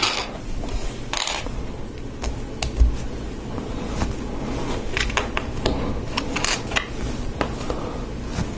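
Plastic Lego Technic pieces being handled and sorted by hand: scattered light clicks and rattles over a low steady room hum.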